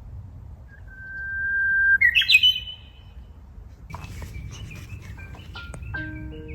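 A songbird singing: one long held whistle that swells in loudness, then a quick burst of higher warbling notes. Fainter short chirps follow.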